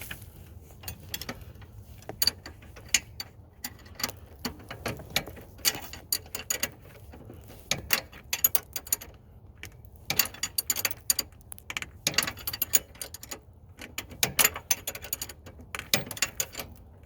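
Box-end wrench working a bolt on a tractor's pedal linkage, with irregular metal clicks and clinks as it is turned and refitted stroke by stroke. The bolt is being tightened in a tight spot.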